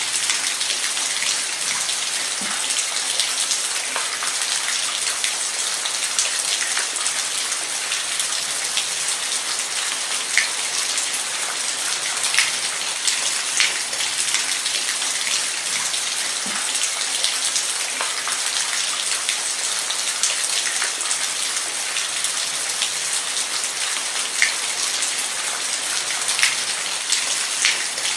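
Steady rain: a dense, even hiss of rainfall with individual drops ticking sharply on a surface now and then.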